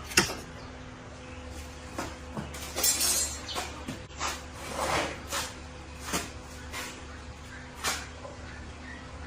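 Irregular knocks and clinks of hand tools and metal bicycle parts being handled, with a short scraping rattle about three seconds in, over a steady low hum.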